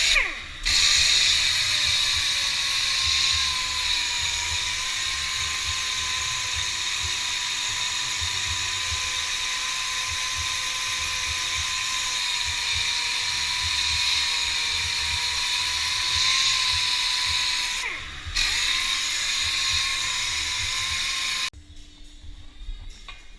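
Small high-speed power tool running with a steady whine and a hiss, briefly dipping in speed about 18 seconds in, then switched off a few seconds later.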